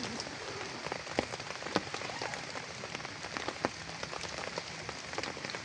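Steady rain falling, an even hiss with many single drops striking close by as sharp, scattered ticks.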